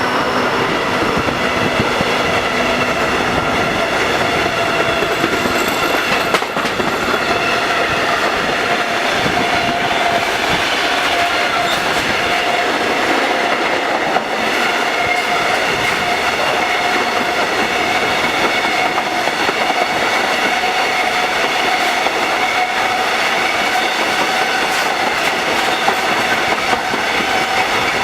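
Intermodal container freight train rolling steadily past, its wagon wheels clattering over the rail joints. A thin, steady whine from the wheels rides over the rumble.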